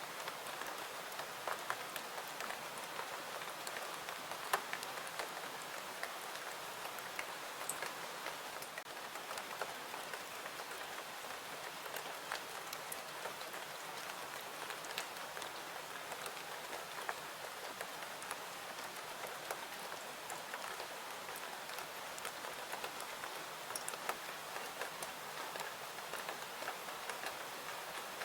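Steady rain falling, an even hiss dotted with scattered sharp ticks.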